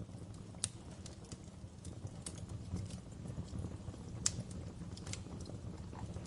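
Wood fire crackling in a fireplace: irregular sharp pops and snaps over a steady low rumble of the flames, with the loudest pop about four seconds in.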